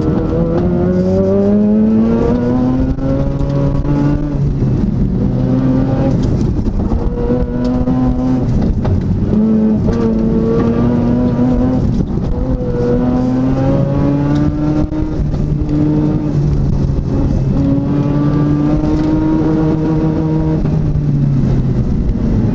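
Car engine under hard acceleration on an autocross run, its pitch climbing, dropping as the driver lifts or brakes for the cones, then climbing again several times.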